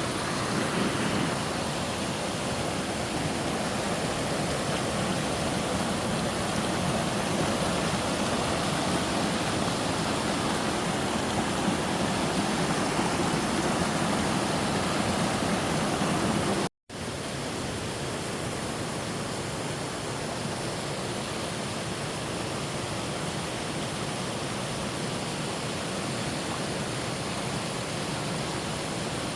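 Waterfall, a steady rush of falling water. About two-thirds of the way through it cuts out for a moment and comes back a little quieter.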